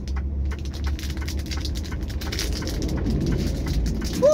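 Raindrops ticking irregularly on a truck cab's roof and windscreen over the truck engine's low, steady idle. Near the end a short squeak rises and falls in pitch and is the loudest sound.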